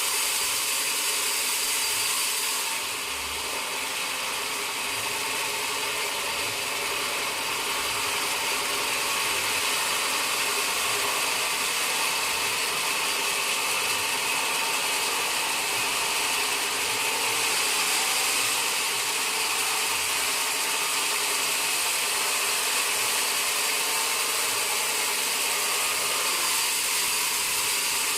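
Sawmill saw running steadily while sawing mahogany wood: a continuous high-pitched whine over a hiss, with no pauses.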